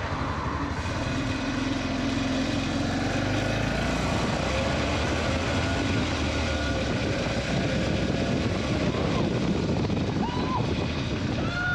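Motorcycle running at steady road speed, its engine hum mixed with wind noise on the microphone.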